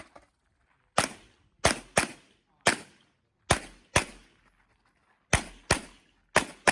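Handgun fired rapidly in a practical shooting course of fire: about ten sharp shots, mostly in quick pairs with short pauses between them.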